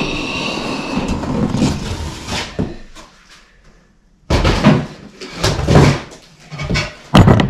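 Cardboard box and packaging being handled while a new battery-powered auger is unpacked: irregular rustling, scraping and knocks, with a brief squeak at the start and a louder flurry of knocks and rustles in the second half.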